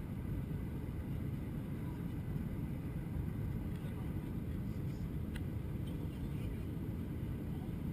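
Steady low rumble of airliner cabin noise inside an Airbus A321-200, with a faint click about five seconds in.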